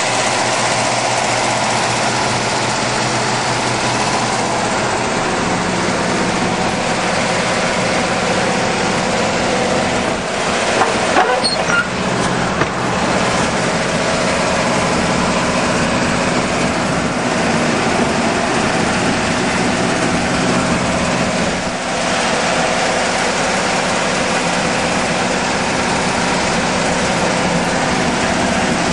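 1970 Pontiac Firebird Formula's V8 engine idling steadily, with a few light knocks near the middle.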